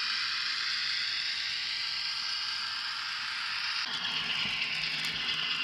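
N scale Broadway Limited SW7 model diesel switcher running slowly through turnouts: a steady high whir, joined by a low hum about four seconds in.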